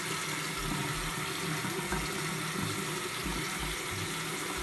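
Sink tap running steadily while cleanser is rinsed off the face with cold water.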